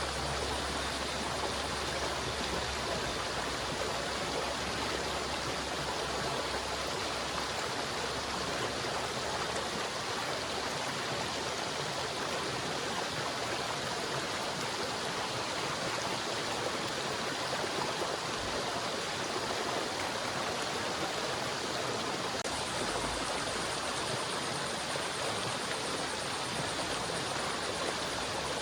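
River water flowing steadily, an even rushing sound with no breaks or changes.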